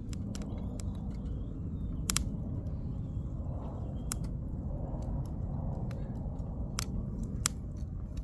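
Firewood burning in a campfire, crackling with scattered sharp pops over a steady low rumble. The loudest pops come about two seconds in and near the end.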